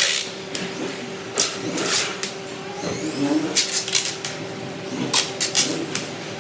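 Workshop noise: a steady machine hum with a dozen or so sharp knocks and clatters, some in quick clusters, and voices in the background.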